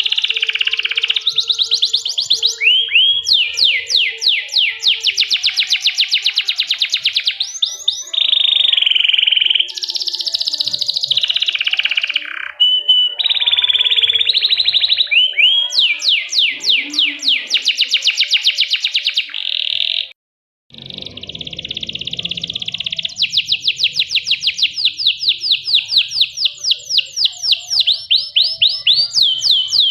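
Domestic canary singing a loud, continuous song of rapid trills and rolling phrases. There is a brief break about twenty seconds in.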